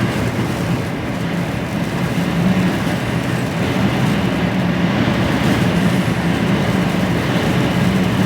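Diesel engine of an HGV container lorry droning steadily while driving, with tyre and road noise, heard from inside the cab.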